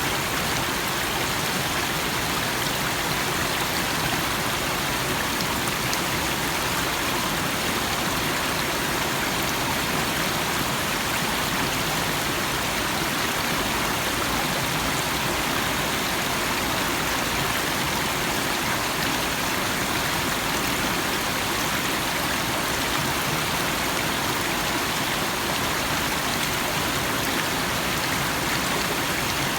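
Small stream flowing and burbling over stones, a steady rushing sound with no breaks.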